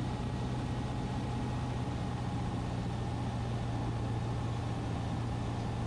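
Cessna 150's Continental O-200 four-cylinder engine running steadily in flight, heard as a low, even hum from the cockpit.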